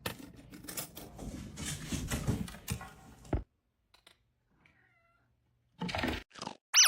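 A cat: about three seconds of scuffling and rustling, a pause, then a few short meows and a loud high cry that falls steeply in pitch near the end.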